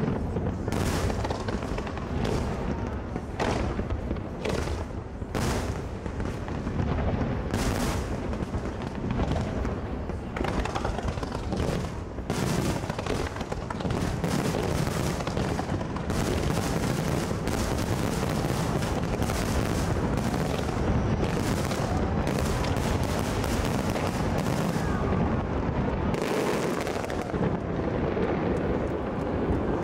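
Fireworks display: aerial shells and waterfront shots going off in many sharp bangs and booms, spaced apart at first and then coming thick and fast, almost without a break, from about twelve seconds in.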